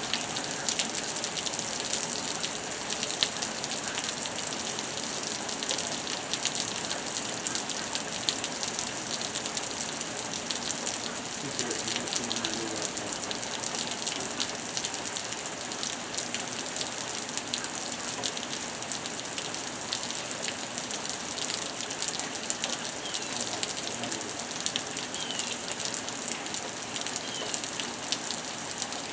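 Heavy rain falling steadily during a thunderstorm, a constant rushing hiss dotted with countless small ticks of drops striking surfaces.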